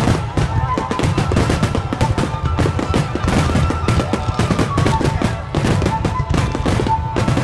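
Fireworks barrage: a dense, continuous run of sharp bangs and crackles, several a second, over a deep rumble.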